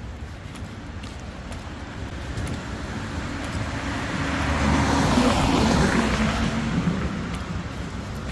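A car passing by on a wet road: its engine and tyre noise swell to a peak about five to six seconds in, then fade away.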